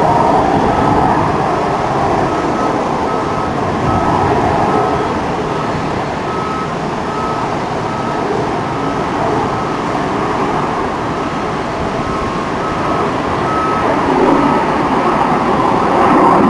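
F-18 fighter jet's engines roaring steadily, swelling slightly near the end. A faint short beep repeats at a regular pace over the roar.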